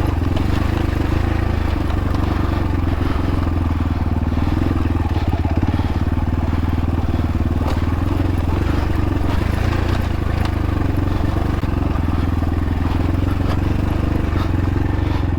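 Xpro Templar X dirt bike's engine running steadily at low revs as it rides over rough trail, with occasional clicks and knocks from the bike and terrain.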